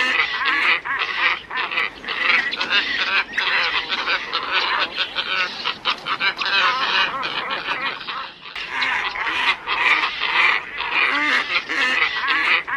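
A flock of glossy ibises calling: many overlapping harsh calls in a dense, continuous chatter, with a brief lull about two-thirds of the way through.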